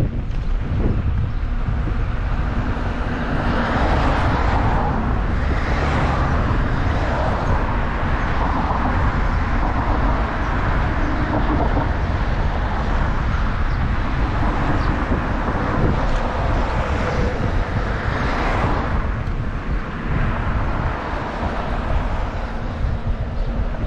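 Wind rumbling on the microphone of a moving bicycle, with road traffic going by: the hiss of passing vehicles swells and fades twice.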